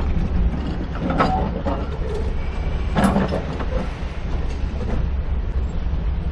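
Railway coaches rolling past close by: a steady low rumble with a few sharp clunks, the loudest about three seconds in.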